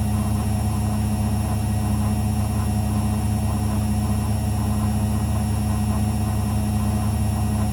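Zanussi FL984CN front-loading washing machine running with a steady low hum and a constant tone.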